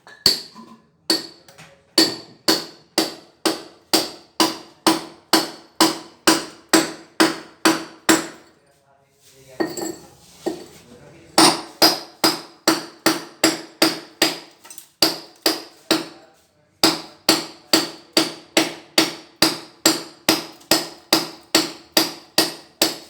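Small hammer striking a steel chisel about twice a second, each blow ringing briefly. The chisel is chipping out damp, rotted concrete behind kitchen wall tiles. The hammering stops twice for a moment, once around the middle and once about two-thirds through.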